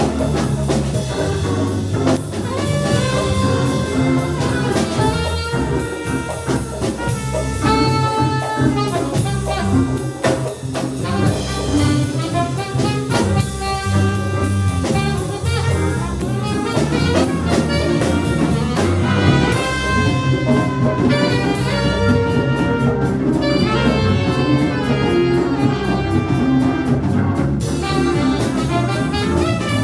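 Live jazz band playing, with brass horns carrying the melodic lines over bass and drums.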